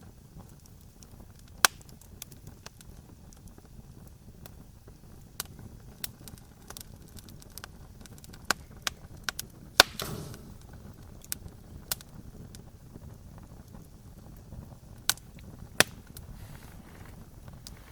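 Campfire crackling: sparse sharp pops over a low steady hiss, the loudest pops about two seconds in, near the middle and near the end. One pop just past the middle is followed by a short hiss.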